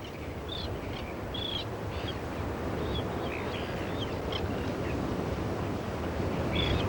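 Steady rumble of wind and surf at a seabird headland, with scattered short, high bird chirps.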